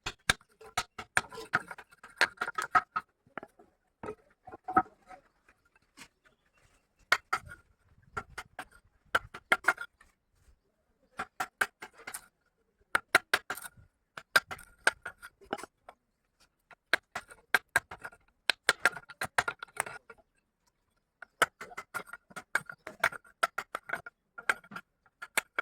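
Hand-tool tapping on wood in quick bursts of sharp, ringing taps, several a second, with short pauses between the bursts.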